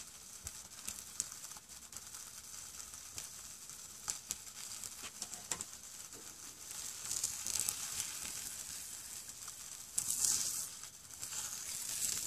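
Bologna sizzling as it fries on the carbon-blackened bottom of an upturned pot set on a wood-fired hobo stove, a steady hiss with small crackles. It swells louder about seven seconds in and again about ten seconds in.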